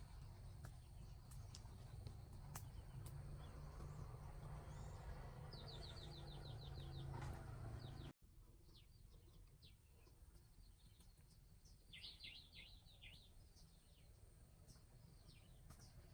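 Faint bird chirps over quiet outdoor background: a quick trill of about ten short high notes, then, after an abrupt change to a quieter background about eight seconds in, a cluster of downward-sweeping chirps.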